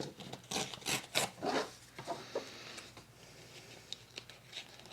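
Paper being handled and rubbed: a few short rustles in the first second and a half, then a few light taps.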